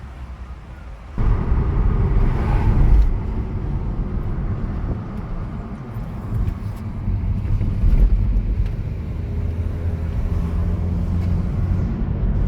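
Road vehicle noise: a steady low rumble that starts suddenly about a second in.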